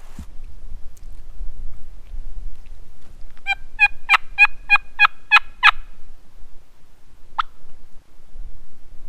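Wild turkey yelping: a run of about eight evenly spaced yelps lasting a little over two seconds, followed a moment later by a single sharp cluck.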